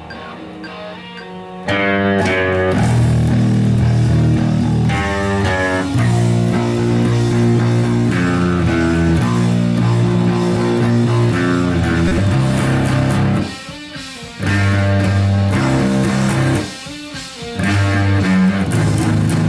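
Electric guitar and bass guitar playing a rock riff in sustained notes, breaking off briefly twice near the end before coming back in.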